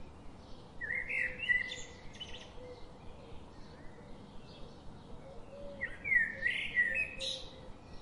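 A bird singing two short phrases of quick chirps and whistled glides, each about a second and a half long, the second about five seconds after the first, over a faint steady background.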